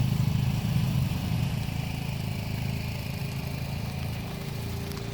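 Toyota Tacoma pickup's engine running at low speed, a steady hum that slowly fades.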